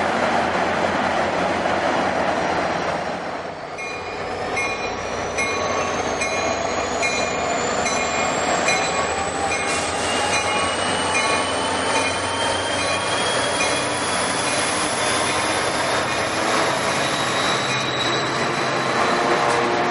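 A commuter train running past, then a train accelerating, its motor whine climbing slowly in pitch for over ten seconds. A regular pulsing tone sounds about once every 0.7 seconds through the rise.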